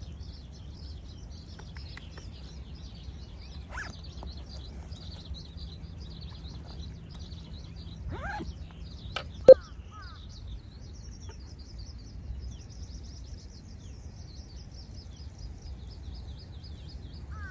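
Birds chirping and calling continuously over a low steady outdoor rumble, with a few short sweeping calls and one brief sharp sound about nine and a half seconds in.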